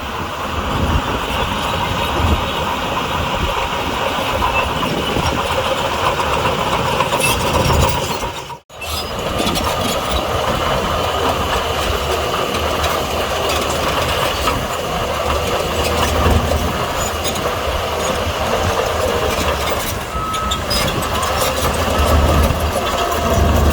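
Heavy diesel bulldozer working under load, its engine running steadily with a metallic clatter of tracks and parts. The sound drops out abruptly for a moment a little over a third of the way through.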